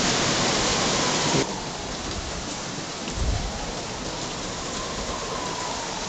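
Heavy tropical downpour in strong wind, a dense steady hiss of rain. The hiss drops suddenly about a second and a half in, and a low rumble comes about three seconds in.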